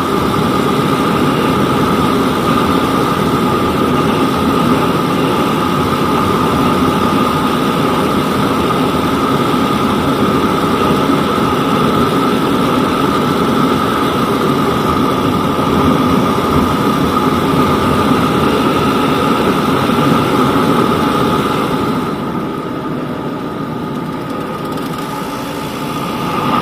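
Yamaha DT200WR's single-cylinder two-stroke engine running steadily, growing somewhat quieter near the end.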